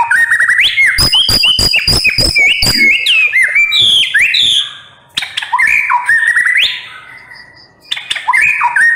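White-rumped shama singing a loud, fast song of whistled notes that slide upward, mixed with a quick run of sharp clicking notes in the first bursts. The song comes in three bursts, with brief pauses about five seconds in and again near the end.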